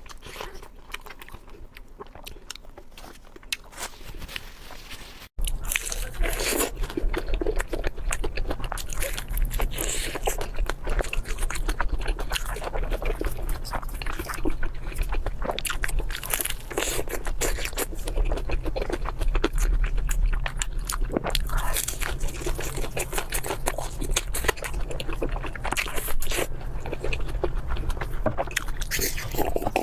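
Close-miked eating: biting, crunching and chewing mouth sounds, a dense run of crackles and clicks. An abrupt break about five seconds in, after which it is louder, over a low steady hum.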